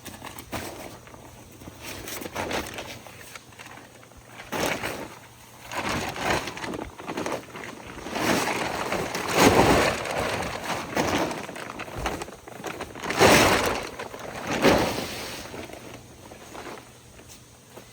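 Irregular crunching and rustling handling noises in uneven bursts, loudest about nine and thirteen seconds in.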